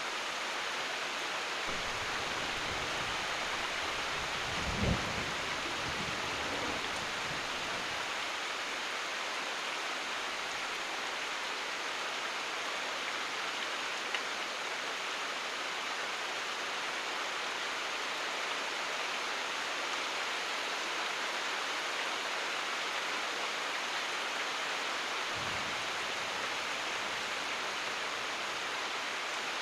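Steady rain falling. A low rumble of thunder comes from about two to eight seconds in, loudest around five seconds, and a brief low rumble follows near the end.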